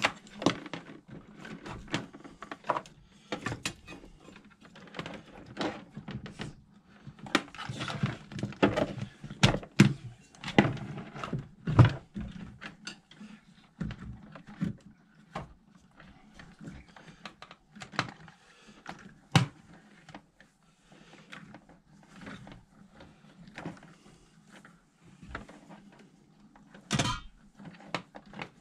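Hands rummaging and handling tools and hardware: irregular clicks, clunks and knocks, busiest in the middle, with a sharper clatter near the end.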